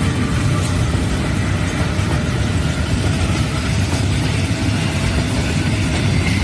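Diesel engine of a metre-gauge train locomotive running, a steady low engine sound.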